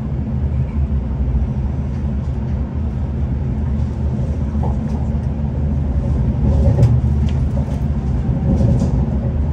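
Steady low rumble of a V/Line passenger train running along the line, heard from inside the carriage, with a few faint light ticks and rattles.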